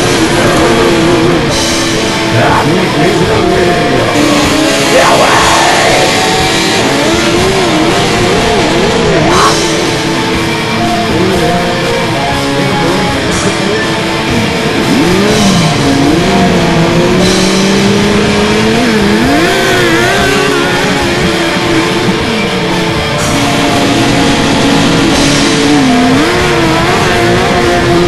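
Heavy rock music with distorted electric guitar, its lead line bending and sliding in pitch.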